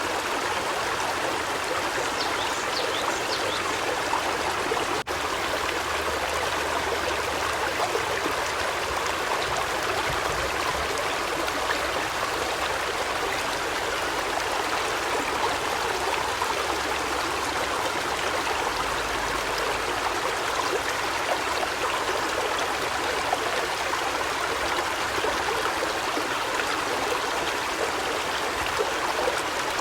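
Steady rushing water, like a stream running, with a brief cut in the sound about five seconds in.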